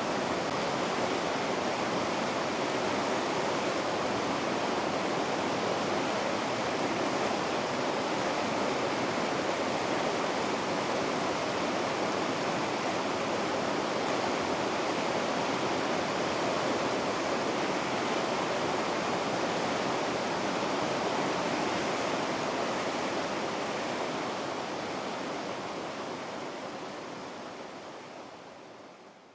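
River rapids rushing steadily, a dense, even wash of water. It fades out smoothly over the last several seconds.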